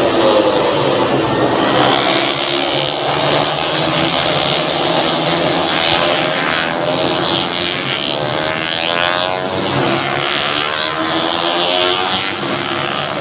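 Several motorcycle engines running and passing, their pitches sliding up and down across one another over a steady hiss of traffic.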